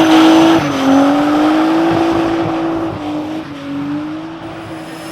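Car engine held at high revs, its pitch dipping briefly twice, with road and tyre noise; the sound gets quieter over the few seconds.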